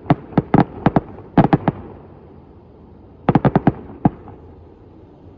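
Firecrackers going off in a rapid, irregular run of sharp bangs. About ten crack out in the first two seconds; after a short lull a second run of about half a dozen follows, ending with one last bang.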